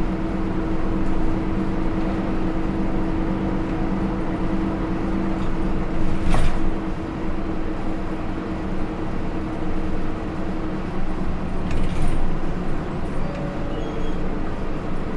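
Hino Rainbow II bus with its Isuzu 4HK1-TCH four-cylinder turbo-diesel and Aisin automatic running along the road, heard from inside the cabin. The engine hum holds steady and eases off near the end. Two sharp knocks of body rattle come about six and twelve seconds in.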